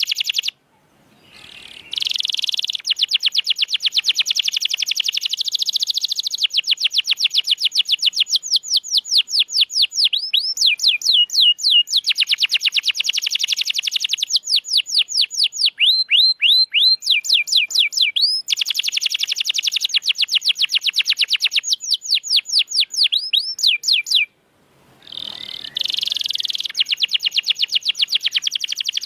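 Domestic canary singing long, rapid trills of repeated notes, many of them quick downward slurs. The song breaks off briefly twice, about half a second in and again about 24 seconds in.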